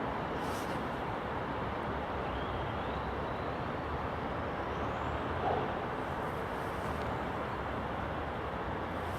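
Freight train running by with a steady rolling rumble and rush of wheels on the rails.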